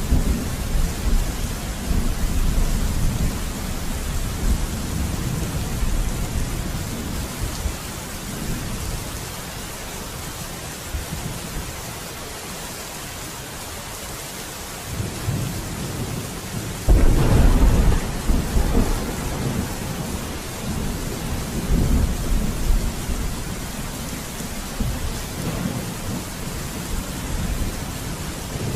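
Steady heavy rain with thunder rolling. The low rumble dies away, then a sudden loud thunderclap about two-thirds of the way through rolls on for a few seconds, followed by more distant rumbling.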